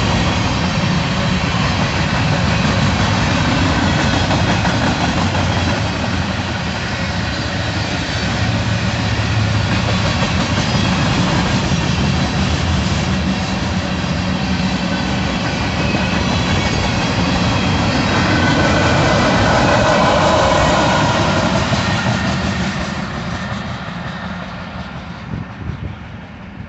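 Cars of a mixed freight train rolling past on the rails with a steady rumble and clatter of wheels, fading away over the last few seconds as the train moves off.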